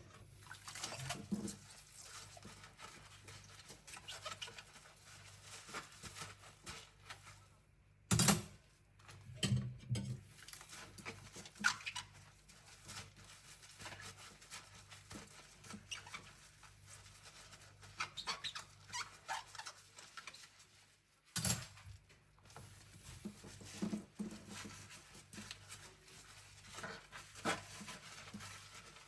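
Cutlery being scrubbed by hand: soft, quick scratching and rubbing strokes, with a few louder clinks of utensils knocking together, about eight seconds in, again around nine to ten seconds, and around twenty-one seconds.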